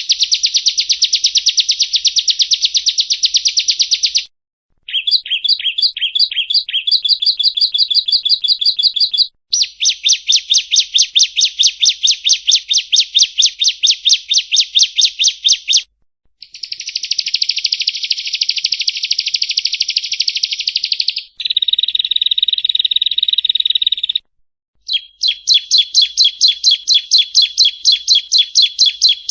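Prenjak rowo (yellow-bellied prinia) song: long runs of rapid, fast-repeated chirping notes, loud and close. The song is cut into several edited stretches with brief dead-silent gaps between them, a little after 4 s, near 9 s, near 16 s and near 24 s.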